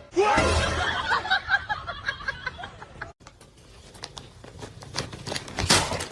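A person laughing in quick, rapidly repeated bursts. After a cut about three seconds in, it goes quieter with scattered clicks, and a short noisy burst comes near the end.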